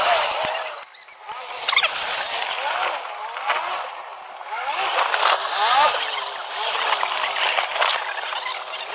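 Off-road 4x4 engine revving up and down as it works over the course, its pitch rising and falling against a steady rough hiss of tyres and ground noise.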